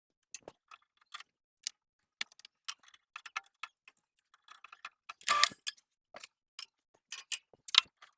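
Irregular light clicks and taps, like small objects being handled on a workbench, with a louder knock about five seconds in and another sharp one near the end.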